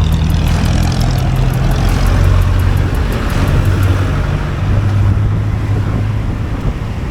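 Honda Beat 110 scooter's small single-cylinder engine running under way, with steady road and wind noise; the engine note drops in pitch over the first couple of seconds as the scooter eases off.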